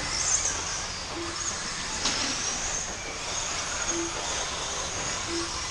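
1/10-scale RC race cars running laps, their electric motors whining high, with a sharp knock about two seconds in.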